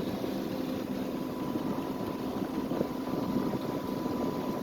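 A sailboat's engine running steadily as it motors along under way, a constant hum with no change in speed.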